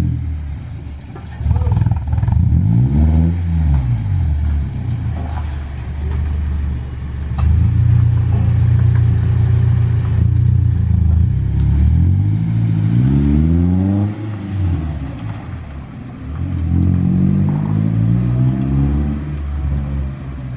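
Daihatsu Gran Max pickup engine revved through an NDK full-system exhaust (4-2-1 header, straight resonator, DK-03V4 muffler). It runs up and falls back several times: quick blips near the start, a long held rev in the middle, then two more rises and falls.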